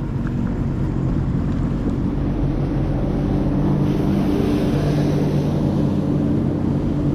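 Jet ski engine running steadily, a low hum that grows gradually a little louder, over the wash of water and wind.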